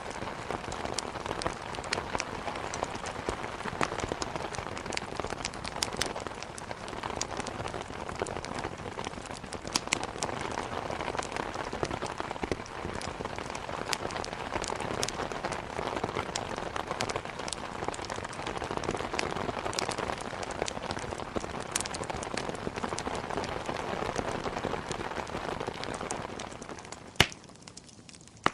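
Steady heavy rain with scattered sharp pops and crackles from a wood fire. Near the end the sound fades down for a moment, broken by one loud pop.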